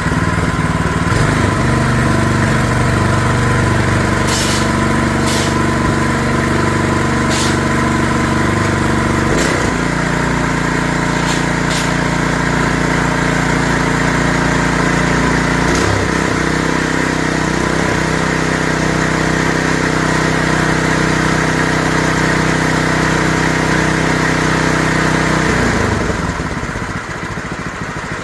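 Small gasoline engine running steadily. Its note shifts twice, about a third of the way in and again past halfway, with a few sharp clicks over it, and the engine sound falls away near the end.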